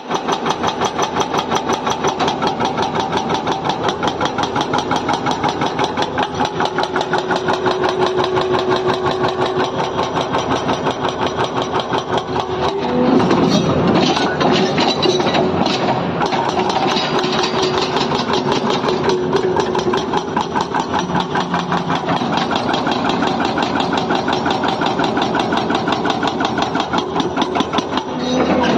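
Diesel engine of an excavator or backhoe loader running with an even pulsing beat, growing louder and heavier about halfway through as it comes under more load or revs.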